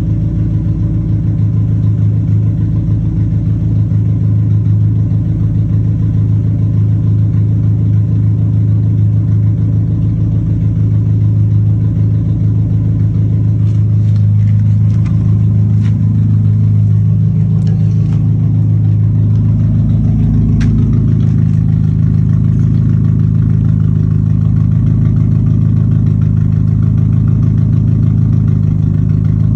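Straight-piped Dodge Neon four-cylinder engine idling loudly and steadily, its exhaust pulses coming fast and even. Its note shifts a little about halfway through, with a few faint clicks.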